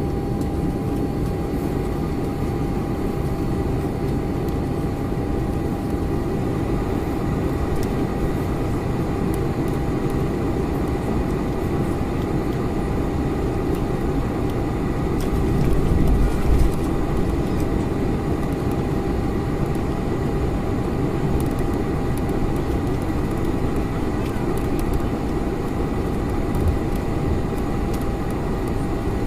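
Steady cabin noise inside a Boeing 747-400: a constant roar with a thin steady whine in it, and a brief louder low rumble about halfway through.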